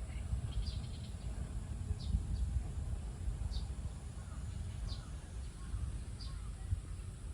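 Birds giving short, high chirps every second or so, over a steady low rumble.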